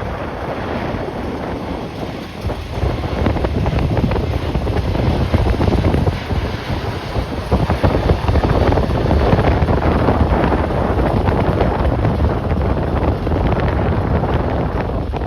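Strong gusty wind buffeting the microphone, a loud low rumble that swells a few seconds in and keeps pulsing with the gusts.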